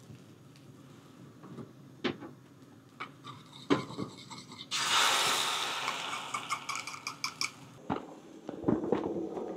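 A few knocks of utensils on cookware, then, about five seconds in, food hits hot oil in a pan and sizzles loudly at once, crackling and slowly dying down.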